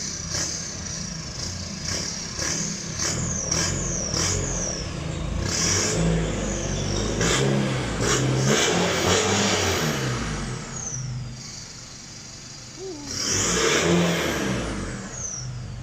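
Nissan Navara turbodiesel engine revved repeatedly through a newly fitted HKS full exhaust, swelling and easing several times with a quieter stretch between revs. High whistles fall in pitch as the revs drop. The exhaust has no leaks.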